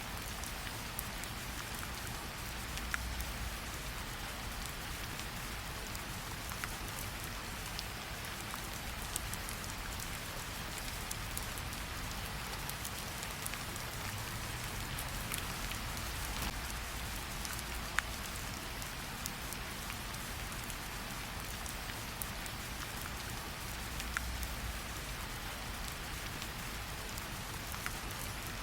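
Steady rain falling, an even hiss with a soft low rumble beneath. About once every few seconds there is a single sharp pop.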